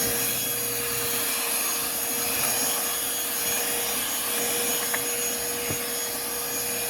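Stihl SEA 20 battery-powered handheld vacuum running steadily with a constant motor whine and airflow hiss as it sucks sand out of a car's interior.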